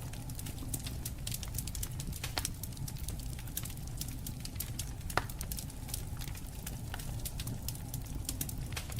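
Wood campfire crackling: a steady low rumble of burning with many small, irregular snaps and one louder pop about five seconds in.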